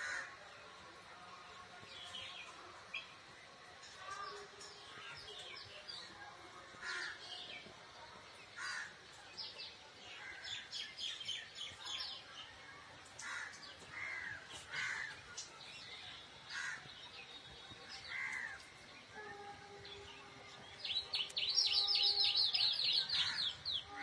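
Outdoor birds calling: scattered short calls and chirps, then a fast run of sharp, high calls lasting about two seconds near the end. A steady low tone sounds briefly near the end.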